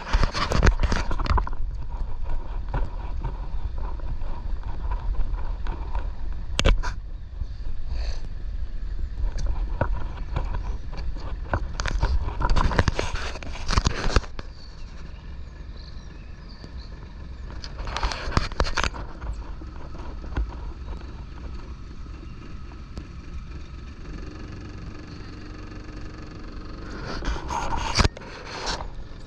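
Boat engine running steadily underway, a constant low rumble, with several short bursts of rushing noise over it.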